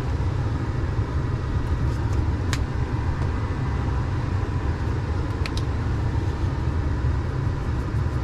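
Semi truck's diesel engine idling steadily, heard from inside the cab, with a couple of faint clicks about two and a half and five and a half seconds in.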